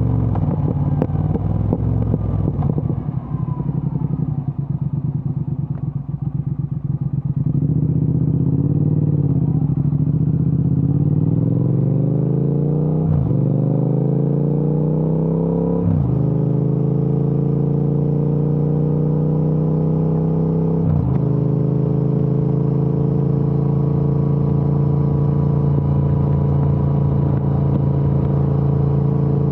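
Triumph Speed Twin 1200's parallel-twin engine through an aftermarket Vance & Hines exhaust. It runs off the throttle with crackling and popping for the first several seconds, then accelerates up through the gears with three upshifts, and settles into a steady cruise.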